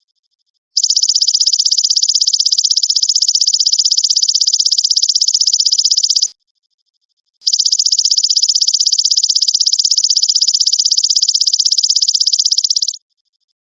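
Golden grasshopper (belalang emas) calling: a loud, high buzzing trill of very fast, even pulses, in two long bursts of about five and a half seconds each with a gap of about a second between them.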